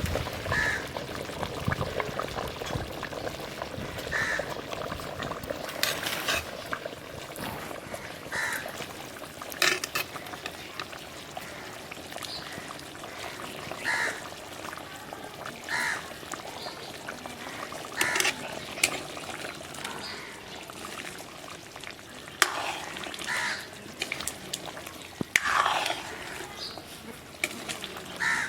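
Short bird calls every couple of seconds over a steady background noise, with scattered clicks.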